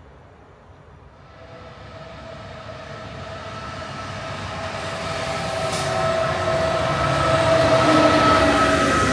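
Electric-hauled regional train approaching and running past, growing steadily louder from about a second in and loudest near the end. Steady high whining tones sit over the rumble of the train, with a single sharp click about six seconds in.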